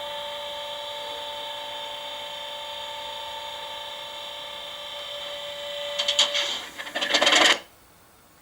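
Sound decoder in an Accurascale model Class 37 locomotive playing its diesel engine start-up sound through the small onboard speaker: a steady whine of fixed tones over hiss, then a clattering rattle about six seconds in, before the sound cuts off abruptly. The start-up fails and cuts out, a decoder fault.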